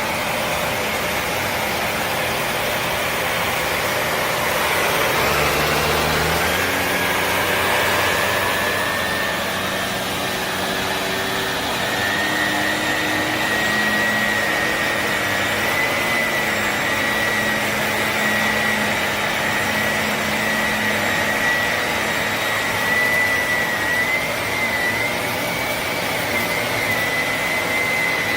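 Shark Navigator NV352 upright vacuum running steadily. A high whine comes in about twelve seconds in and holds to the end.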